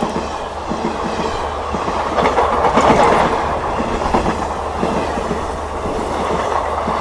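A fast passenger train passing close by. The steady rush of wheels on rail runs with rapid clickety-clack from the wheels over the rail joints, swelling a little about three seconds in.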